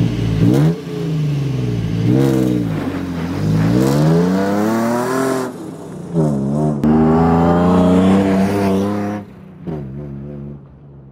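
Jeep Wrangler JK Unlimited's V6 engine revving hard in several rising and falling pulls as it accelerates. It drops away to a lower, fainter sound near the end.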